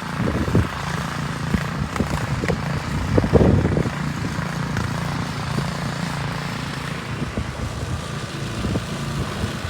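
An engine running steadily, with a few louder rough scraping bursts, the longest about three seconds in.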